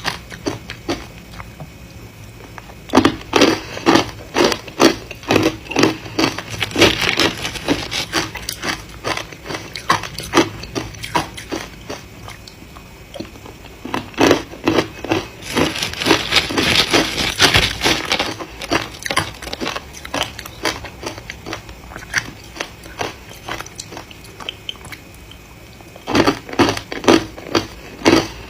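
Hard ice being bitten and chewed close to the microphone: runs of rapid crunching and cracking, with quieter pauses between mouthfuls.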